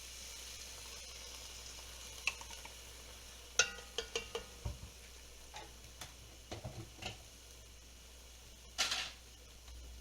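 Cooking at a stove: a faint steady hiss from a pot, with a quick run of metal clinks that ring briefly, like a utensil or lid striking a pot, then a few softer knocks and a short scraping burst near the end.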